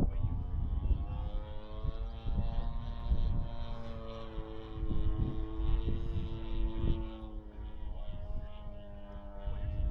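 G26 two-stroke gas engine of a large RC Piper Cub turning an 18x8 propeller, droning in flight with its pitch shifting a little as it flies. A gusty low rumble lies under it.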